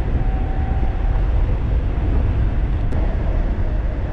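Wind rushing over the microphone of an electric bike riding at speed, a steady low rumble, with a faint steady whine in the first second or so.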